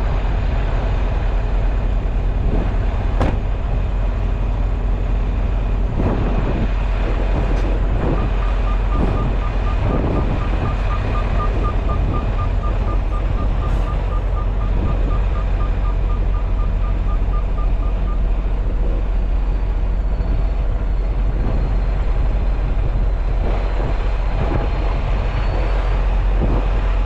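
Semi-truck diesel engine running steadily, with scattered knocks and clunks. About eight seconds in, a rapid string of short, same-pitch electronic beeps runs for about ten seconds.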